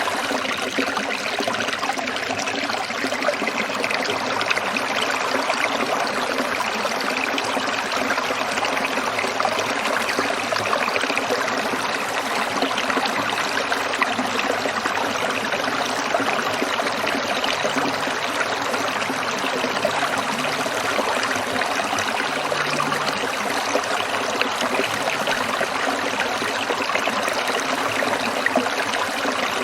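A small stream trickling and splashing over stones, a steady, unbroken water sound.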